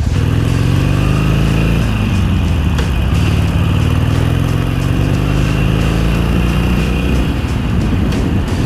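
Harley-Davidson Iron 883's V-twin engine running on the move, its pitch rising and falling several times as the rider works the throttle.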